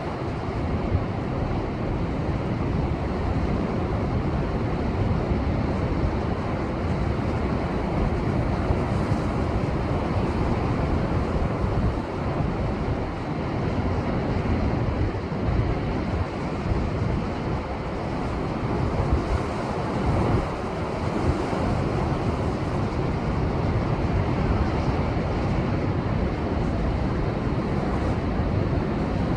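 Heavy post-typhoon ocean swell breaking continuously against shore rocks, a steady wash of surf with no let-up. Wind buffets the microphone throughout.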